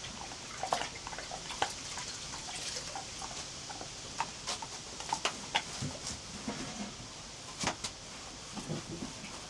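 Scattered light clicks and taps at irregular intervals over a faint steady hiss.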